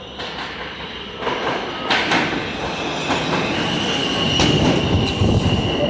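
R160 subway train arriving at a station, growing louder as it approaches, with wheels clicking over rail joints. A steady high-pitched squeal sets in about halfway through and holds.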